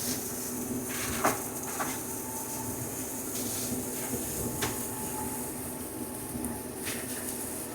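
Compact tractor running a PTO-driven flail mower while cutting brush: a steady machine noise with a few sharp knocks about 1, 2, 4.5 and 7 seconds in.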